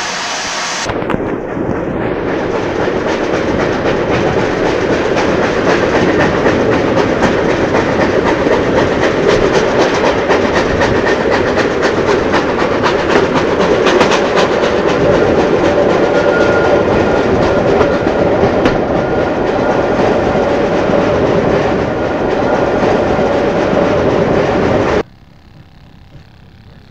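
Riding in a train of historic narrow-gauge coaches hauled by the RhB G4/5 steam locomotive: a steady loud clatter of wheels over rail joints and the running noise of the coach. Near the end it cuts off abruptly to a much quieter sound.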